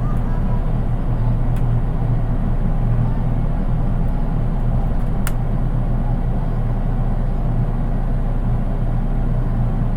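Running noise inside a JR East 183 Series electric train's KuHa driving trailer car: a steady low rumble of wheels and bogies on the rails, with no traction-motor whine since the car has no motors. A brief sharp click sounds about five seconds in.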